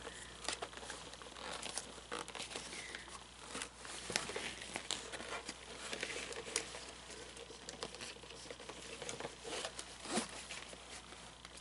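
Fabric rustling and crinkling as tight pants are tugged down off a Gemmy animatronic figure, with scattered small clicks and scrapes from handling the figure.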